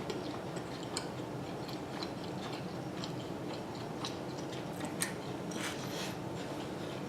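Close-miked chewing of barbecue bacon chicken pizza: faint, sharp mouth clicks about once a second over a steady low hiss.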